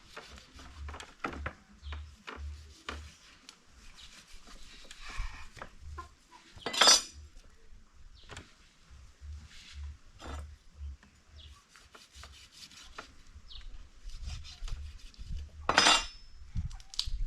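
Scattered knocks, clinks and scraping of kitchen utensils against pots and dishes, with two louder rasping scrapes, one about seven seconds in and one near the end.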